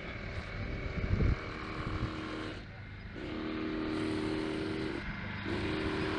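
Radio-controlled model helicopter running, a steady pitched drone of motor and rotor that fades out briefly twice, over low rumbling noise.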